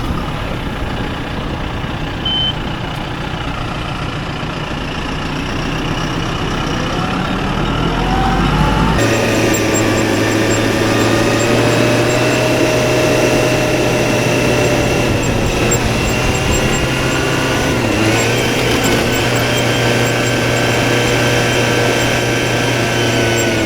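Farm machinery engine running, its speed rising over the first several seconds. About nine seconds in it changes suddenly to a steady, louder run with a hum and a steady whine on top.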